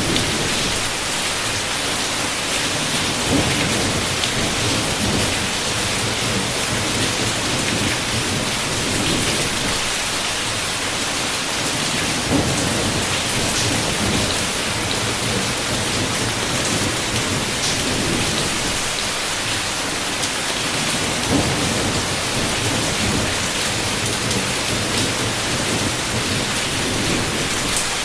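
Heavy rain falling steadily against a window, with low thunder rumbling now and then, three times briefly swelling.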